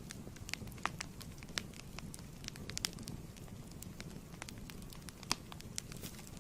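Fireplace wood fire crackling: irregular sharp pops and snaps over a steady low rumble of the flames, one louder pop a little after five seconds in.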